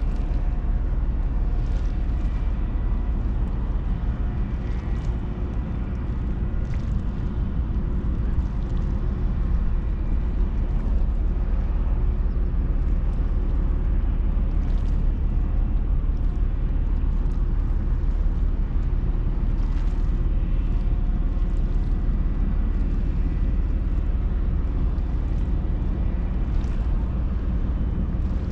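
Ferry's machinery running with a steady low rumble and a faint, even hum above it.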